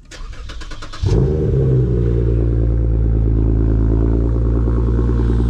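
A Lexus IS350's 3.5-litre V6 is cranked by the starter for about a second, then catches with a loud, brief rev flare. It settles into a steady, loud fast idle. The exhaust is a Tsudo mid-pipe with no secondary cats and a muffler delete, which makes the start-up loud.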